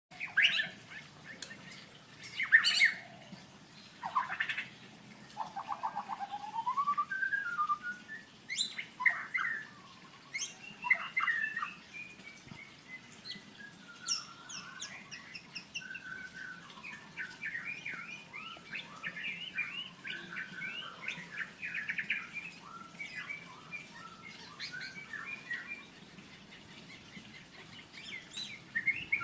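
Male white-rumped shama (murai batu) in breeding condition singing a varied courtship song to a female: loud whistles, sliding notes and dense rapid chattering phrases.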